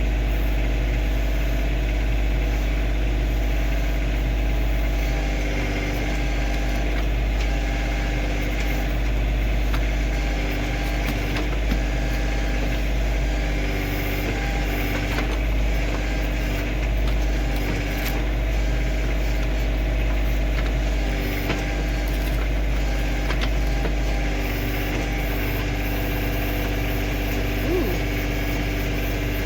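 Kioti CK2610 compact tractor's diesel engine running at a steady speed, with a few faint clicks along the way.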